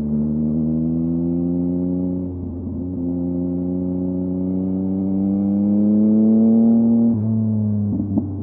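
Yamaha MT-09's inline-three engine through a LeoVince LV Race exhaust, its pitch climbing steadily under acceleration. It breaks and drops twice, about two and a half seconds in and again about seven seconds in, as it shifts up a gear.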